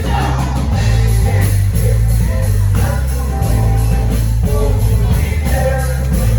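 Live band playing an upbeat gospel song, with a heavy bass line, drums keeping a steady beat and electric guitar, and voices singing along.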